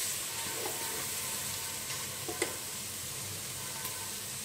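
Liver pieces sizzling in oil in a metal pot as they are stirred with a wooden spatula, their released water already cooked off so they are frying dry with the added spices. A steady sizzle, with two short knocks of the spatula a little past halfway.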